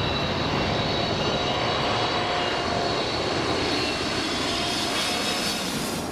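Jet airliner engine running steadily: a loud, even rush of noise with faint steady whines riding above it.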